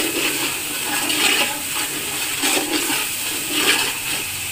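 Onion-and-spice masala sizzling in oil in a steel pot while a steel ladle stirs and scrapes through it, about four stirring strokes roughly a second apart. This is the bhuna stage, with the oil risen to the top of the masala.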